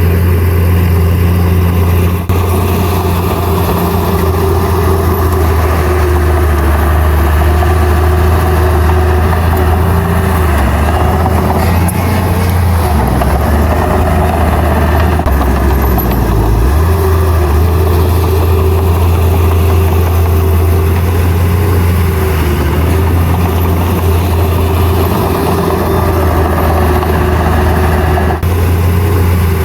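Heavy earthmoving machine's diesel engine running steadily under load, its low note dropping briefly about halfway through.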